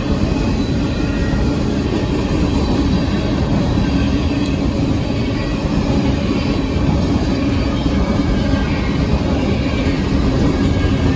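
Union Pacific coal train's cars rolling steadily past a grade crossing: a loud, continuous rumble of steel wheels on the rails.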